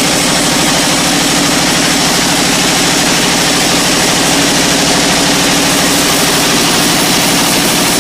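Engine of sawmill machinery running steadily at an even speed, a fast firing rhythm under a steady hiss.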